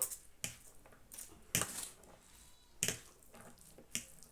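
Cooked instant noodles being mixed with their seasoning: about five short, sharp clicks and scrapes, irregularly spaced about a second apart.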